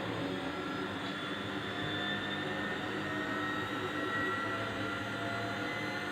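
Samsung front-loading washing machine spinning its drum fast, a steady motor whine whose pitch rises slowly as the spin speeds up. The brushed drive motor, which would not turn the drum because of worn, short carbon brushes, is now running normally.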